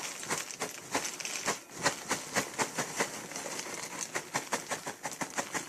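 Puffed corn cereal pouring from its bag into a ceramic bowl: a dense, irregular pattering of light pieces landing.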